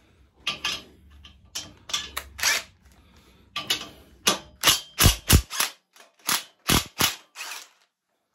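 Metal sockets and tools clinking and clanking while the right socket is picked out of a socket set: a string of sharp knocks, loudest and closest together about four to seven seconds in.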